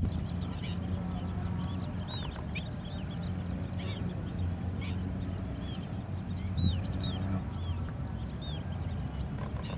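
A flock of birds calling, many short chirps and whistles overlapping, over a steady low hum that stops about seven seconds in.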